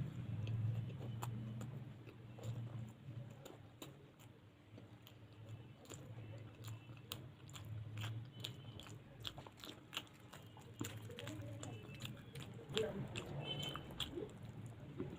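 A person chewing and biting mouthfuls of luchi with alur dam close to the microphone, with many small, irregular mouth clicks.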